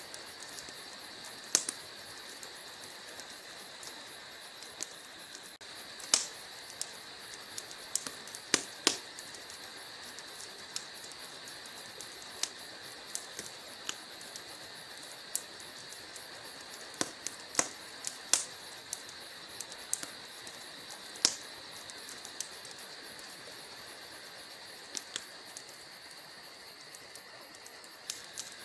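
Wood logs burning in a fireplace, with irregular sharp pops and crackles over a steady high hiss.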